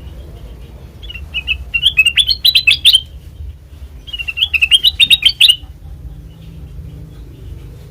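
A kutilang emas bulbul singing two phrases of bright chirping notes, each climbing in pitch and ending in a quick run of notes, a second or so apart. A low steady rumble sits underneath.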